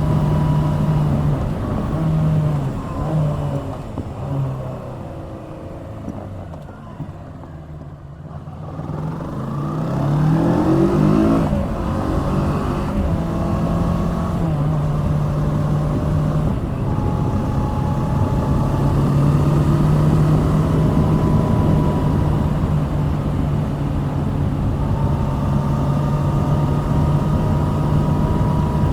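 Kawasaki Z650's 649 cc parallel-twin engine running on the road. The engine note drops and goes quieter for a few seconds. About nine seconds in it rises in pitch as the bike accelerates, then settles into steady cruising.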